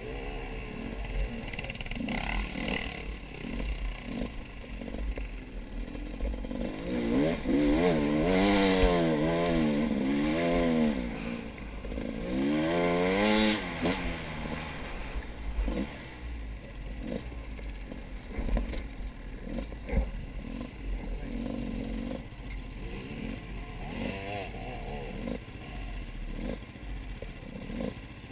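A motor vehicle engine revving up and down in quick repeated swells for a few seconds, then rising and falling once more; this is the loudest sound. Before and after it there is a low rumble with scattered short clicks and clatter.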